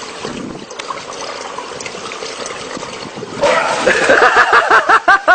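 Water trickling steadily for about three and a half seconds, then a sudden switch to a run of rapid, high, bending vocal sounds.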